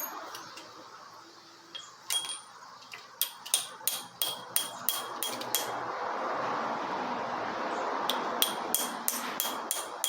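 Hammer striking a steel punch: sharp, ringing metal-on-metal taps, a few single blows and then two quick runs of about two blows a second, over a steady hiss.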